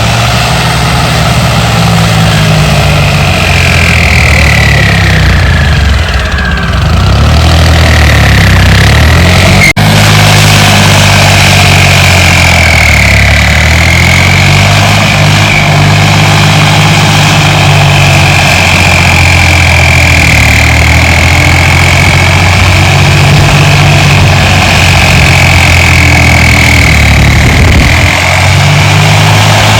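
Turbocharged tractor diesel engine running steadily at a low speed, with a high whine that wavers in pitch over the engine note.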